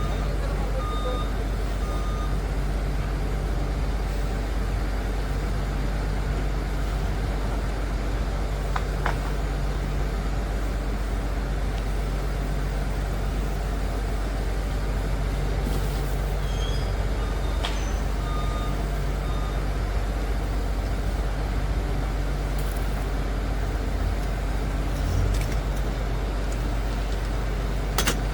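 Liebherr PR 746 crawler dozer's diesel engine running steadily with a deep, even sound. Its reversing alarm beeps in short runs near the start and again a little past halfway.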